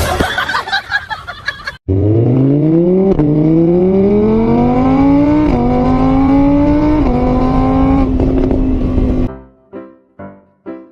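Car engine accelerating hard through the gears: the pitch climbs, breaks at each of about four shifts, then holds steady before cutting off abruptly. Short repeated musical notes, about two a second, start near the end.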